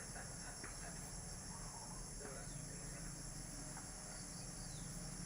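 Steady, high-pitched chorus of insects like crickets, with a few faint clicks.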